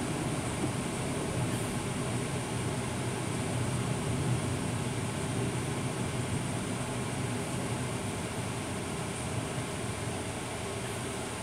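Truck driving on city streets, heard from inside the cab: a steady engine rumble mixed with road noise.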